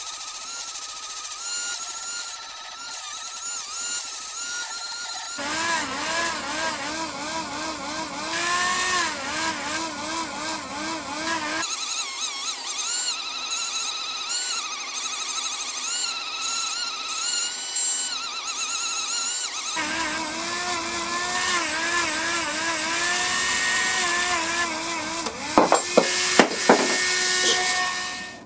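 A power tool's motor running with a wavering whine, in several short stretches that change abruptly, then a few sharp knocks near the end.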